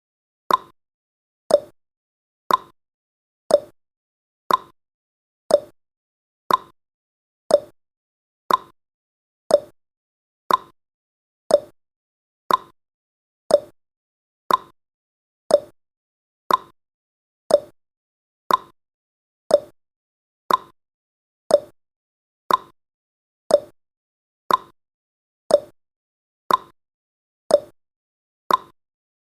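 Clock-ticking sound effect of a countdown timer: one sharp tick each second, alternating slightly higher and lower in pitch like a tick-tock.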